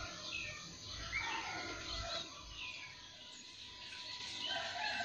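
Several small birds chirping in short, overlapping calls, many of them quick falling notes.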